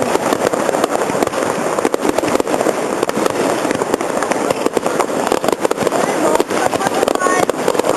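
Fireworks display: a continuous dense crackle of many rapid pops and bursts, with a brief voice near the end.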